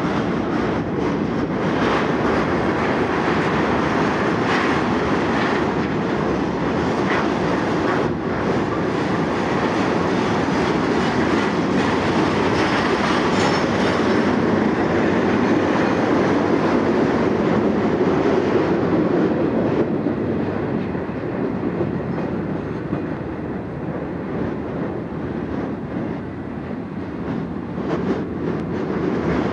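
Freight train of loaded flatcars rolling past on the rails: a steady rumble of steel wheels with scattered clicks and clunks. It eases off a little in the last third as the train draws away.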